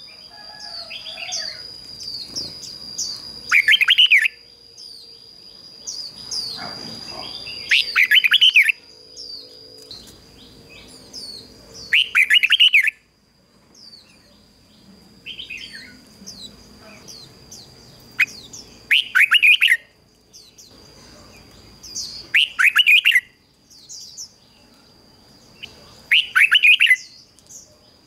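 Red-whiskered bulbul singing: six loud, short song phrases repeated every few seconds, with softer chirps between them.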